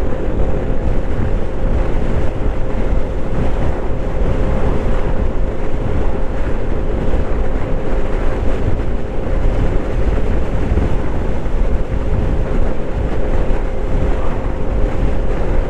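Heavy wind buffeting on the microphone while riding a Vespa GTS 125 scooter at steady speed. Under it is the steady tone of its single-cylinder four-stroke engine and drivetrain.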